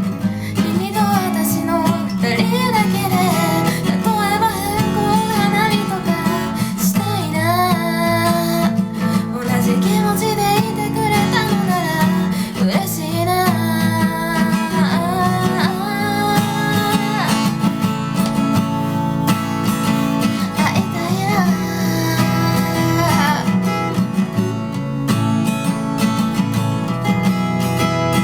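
Acoustic guitar strummed under a singing voice in a guitar-and-vocal song. About three quarters of the way through, the singing stops and the guitar carries on strumming alone.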